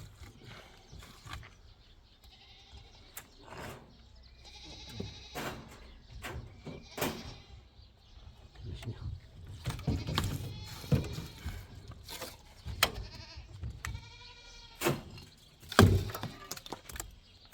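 Sheep or goats bleating, about three separate calls a few seconds apart, amid scattered knocks and clatter, with a sharp thump near the end.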